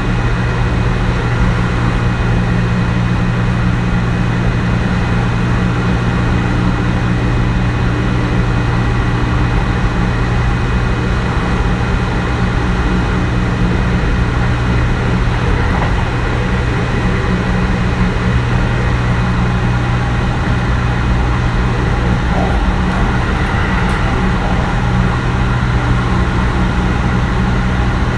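Kintetsu 1420 series electric train with a Mitsubishi GTO-VVVF inverter running at a steady speed, heard from inside the car: an even low traction-motor and gear hum over steady wheel-and-rail rumble, with no rise or fall in pitch.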